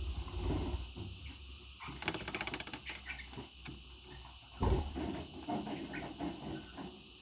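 Pet parrot moving about and briefly fluttering its wings: a burst of rapid flutter about two seconds in, then a thump and rustling.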